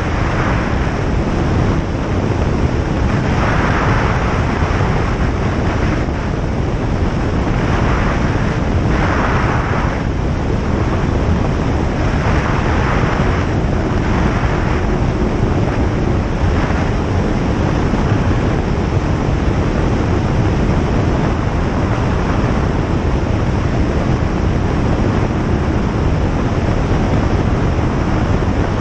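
Single-engine light aircraft in flight: the engine and propeller run steadily under a constant rush of airflow. The hiss swells briefly a few times in the first half.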